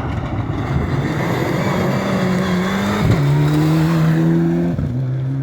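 Rally car accelerating through the stage, its engine pitch climbing and then dropping sharply at two upshifts, about three and five seconds in, louder as it comes past.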